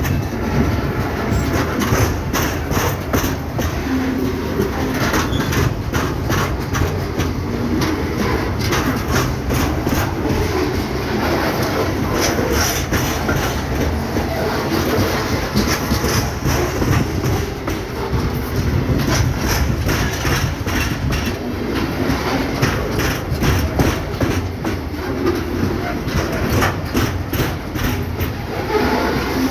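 Train wagons rolling past on a railway bridge: a steady rumble with a rapid, irregular clatter of wheels over rail joints that keeps on without a break.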